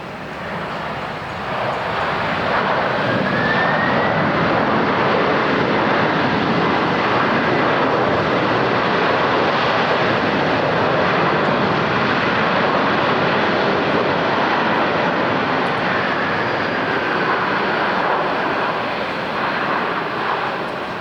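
Jet airliner passing close by with its engines running: the noise swells about two seconds in and stays loud. A thin engine whine rises early on and falls away near the end as the aircraft goes past.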